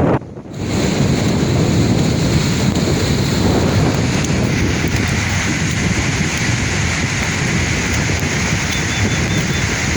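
Sea waves washing on the shore, a steady rushing surf with wind noise on the microphone; the sound drops out briefly just after the start, then resumes.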